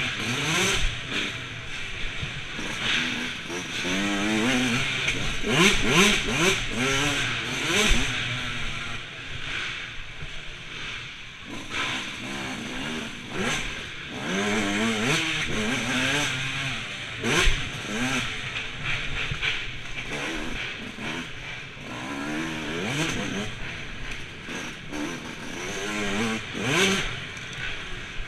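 Motocross bikes running on a track, their engines revving up and dropping back again and again as they accelerate and ease off, with several engines overlapping.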